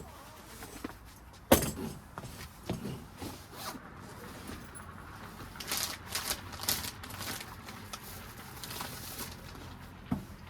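Scattered clicks, knocks and rustles of objects being handled, the sharpest about a second and a half in and a busy run of them a few seconds later.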